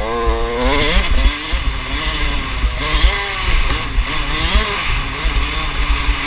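Two-stroke motocross bike engines revving hard, the pitch climbing sharply at first and then rising and falling repeatedly as the riders open and close the throttle. A heavy, irregular low rumble of wind buffeting the microphone runs underneath.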